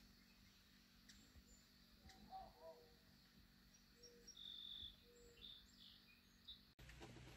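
Near silence with faint, distant birds calling: scattered short whistled notes, some low and some high.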